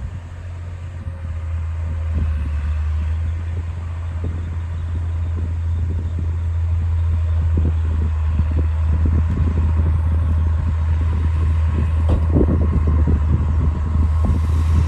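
D60 bulldozer's diesel engine running under load with a steady low drone that grows slowly louder, with irregular clattering knocks that become frequent from about halfway.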